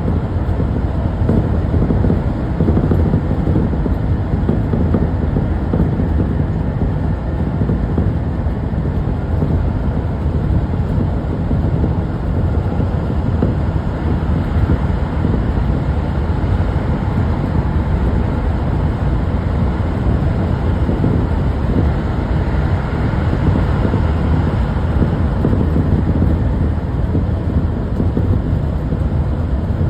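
Subway train running, a steady low rumble with no break.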